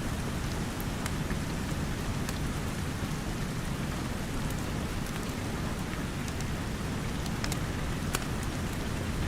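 Steady rain with a low, even rush, and scattered sharp pops and crackles of a wood fire, a few more of them near the end.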